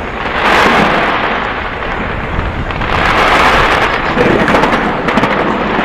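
Fireworks display going off in a dense, continuous barrage of crackling and rumbling bangs, swelling twice, about half a second in and again about three seconds in.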